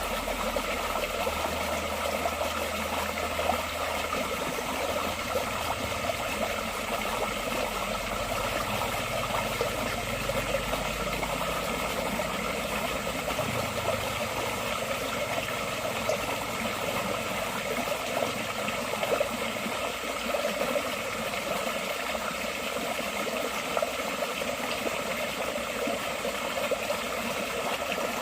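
Forest stream flowing steadily, a constant burble of water over stones. A low rumble runs underneath for the first dozen seconds, then fades out.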